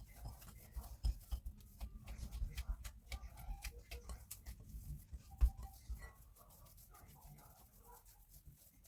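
Irregular light clicks and soft knocks, with a few louder thumps around the middle, that thin out after about six seconds.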